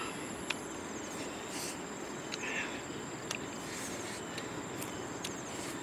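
Insects trilling steadily at a high pitch over a soft, even background hiss, with a few faint clicks.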